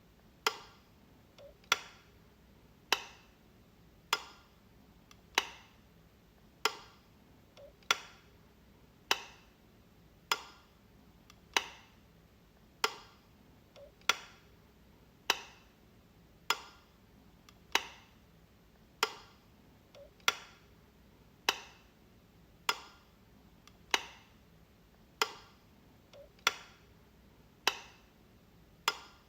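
Wall light switch clicking, one sharp click about every 1.2 seconds in a steady repeating run, some clicks with a fainter click just before.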